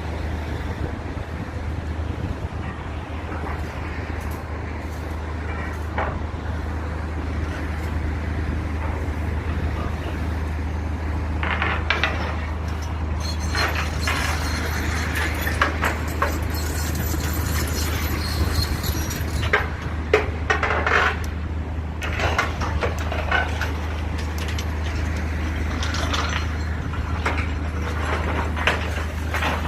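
A heavy engine running steadily, with irregular bursts of crunching and clattering debris from about twelve seconds in, as in building demolition.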